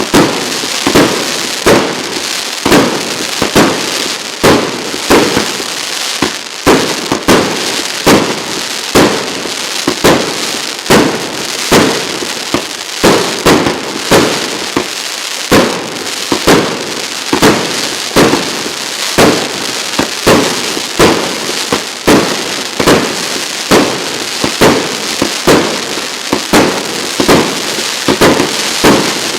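A 100-shot firework cake of 32 mm (1.25-inch) golden palm shells firing in a steady sequence, roughly one sharp shot a second, with a continuous hiss and crackle between the shots.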